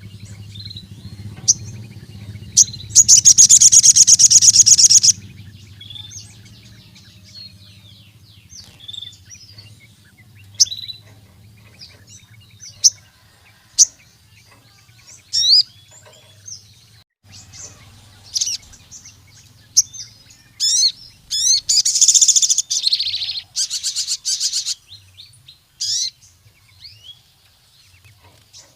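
A sogon sunbird singing energetically: sharp high chirps and calls, broken by two long, fast, rattling trills, one near the start and one about two-thirds of the way through. This is the full 'gacor' song used as a lure to call in rival sogons and as tutor song.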